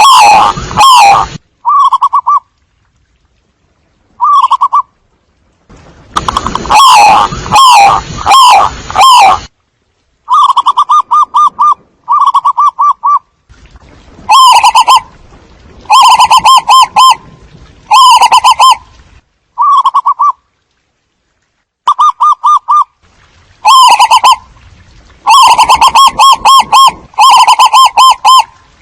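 Zebra doves calling: repeated short bursts of rapid, staccato trilled cooing notes, loud, with brief pauses between bursts.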